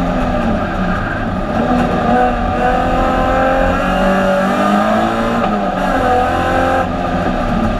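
Alfa Romeo 156 GTA race car's 3.2-litre V6, heard from inside the stripped cabin under racing load. The engine note rises and falls several times, and eases near the end.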